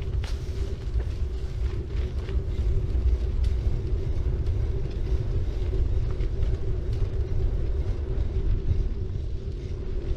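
A city bike rolling along, recorded from the bike itself: a steady low rumble of tyres and wind with a constant hum and scattered light ticks.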